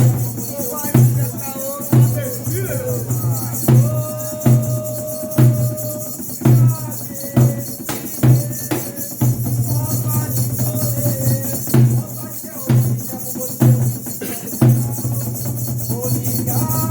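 Candomblé ritual music: drums beating a steady heavy pulse about once a second, with voices singing over them.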